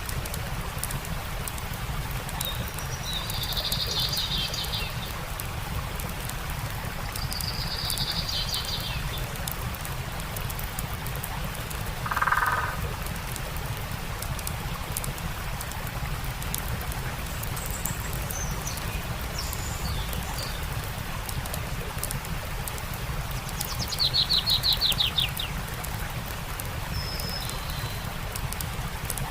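Steady rush of a stream with the light crackle and pops of a campfire, while birds call: a few short chirps, one lower call near the middle, and a fast trill a few seconds before the end.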